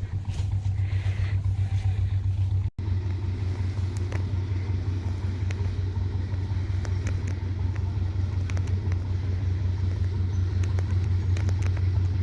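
A steady low rumble that drops out for an instant about three seconds in, with faint clicks over it.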